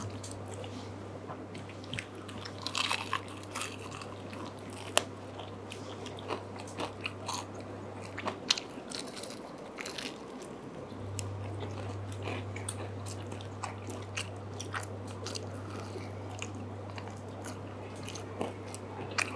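Close-up eating sounds: biting and chewing baked chicken wings dipped in sauce, with scattered short crunches and mouth clicks. A steady low hum runs underneath and drops out for a couple of seconds midway.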